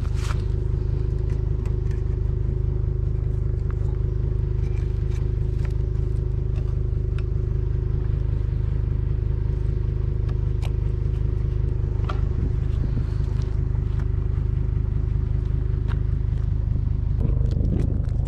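Pickup truck engine running steadily, with a deep rumble and a steady hum, and scattered light clicks and rattles over it.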